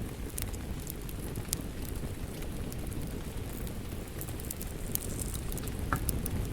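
Wood fire crackling, with scattered sharp pops over a steady low rush of rain.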